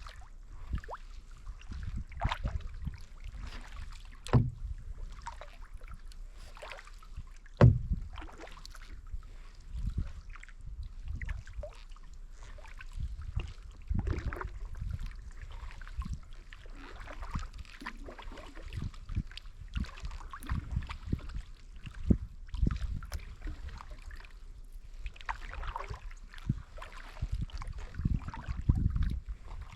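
Kayak paddling: the paddle blades dip and splash in the water in an uneven rhythm of strokes, over a low rumble. A few sharp knocks sound, the loudest about eight seconds in.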